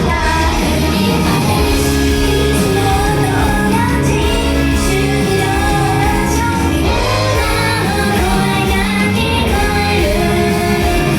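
Live J-pop idol performance: female vocals singing over a loud, dense band backing track.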